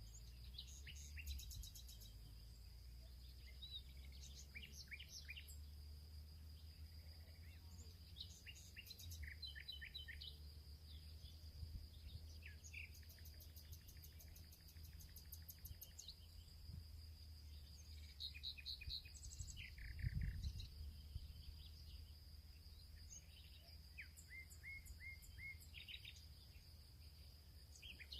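Several birds chirping and trilling in short phrases over a steady high-pitched insect drone, with a faint low rumble beneath that swells briefly about two-thirds of the way through.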